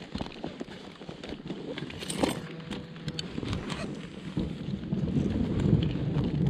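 Road and wind noise of a moving car, growing steadily louder toward the end, with scattered light ticks.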